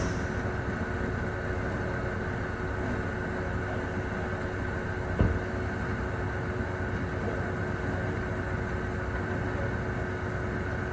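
Vehicle engine running steadily with a constant hum, and a single sharp knock about five seconds in.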